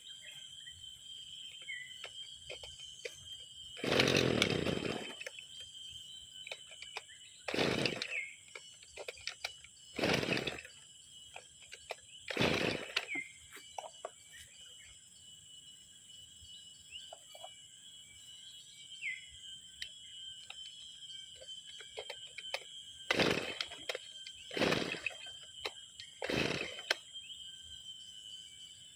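Two-stroke brush cutter being pull-started over and over: seven short separate bursts, the first the longest, without the engine settling into steady running. This is a hard start after six months unused. A steady high insect drone runs underneath.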